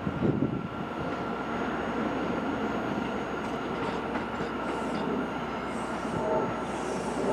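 New York City subway train running at the station: a steady rumble of wheels on rail with a faint steady whine over it.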